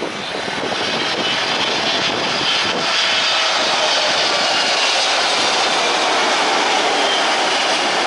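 Jet airliner engines, loud, building over the first three seconds and then holding steady, with a thin high whine on top.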